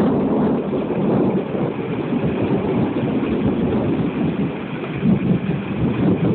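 Thunderstorm noise: rain and wind on the microphone, a dense rushing noise that swells and dips.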